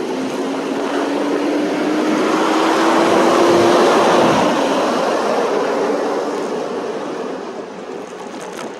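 Wind rushing over the phone microphone while riding an e-bike, swelling to its loudest about halfway through and then easing off. Under it, a steady whine rises slightly in pitch for the first four seconds and then stops.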